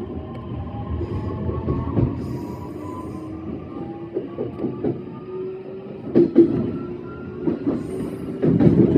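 E131-series electric train's motor whine, several tones climbing steadily as the train accelerates away from a stop. Wheels rumble on the track, with knocks over rail joints now and then.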